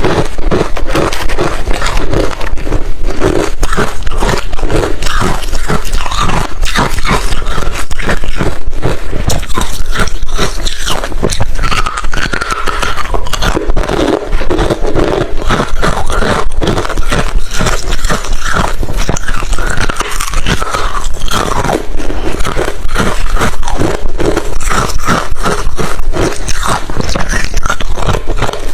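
Hard refrozen crushed ice being bitten and chewed close to the microphone: a loud, fast, continuous run of irregular crunches and crackles.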